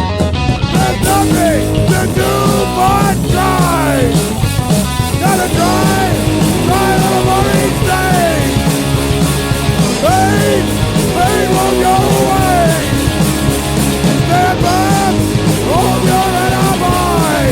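Skinhead rock 'n' roll (Oi) band recording playing an instrumental stretch: loud distorted guitars over bass and drums, with a lead line whose notes repeatedly bend up and fall back in pitch.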